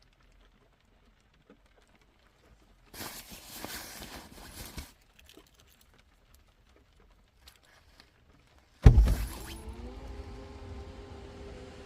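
Rustling and handling noise for about two seconds, then a car engine starting abruptly about nine seconds in and settling into a steady idle hum.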